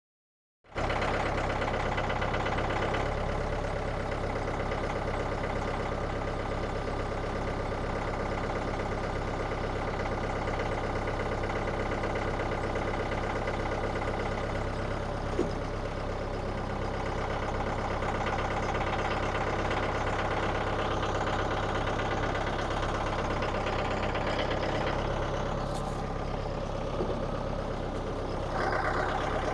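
Petrol engine of a Frontier OS27 portable sawmill running steadily, starting suddenly about a second in.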